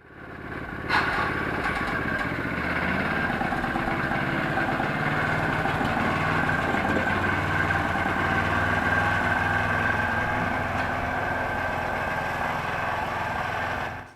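Motor Sich walk-behind tractor's engine running steadily, with a sharp knock about a second in.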